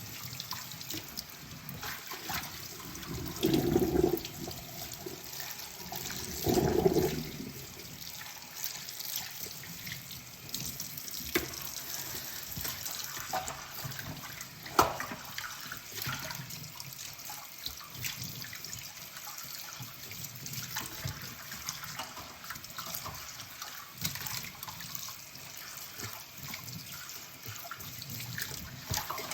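Kitchen tap running into a sink while dishes are washed by hand, the water splashing over them. The splashing swells twice in the first seven seconds, and a few sharp clinks of tableware come later.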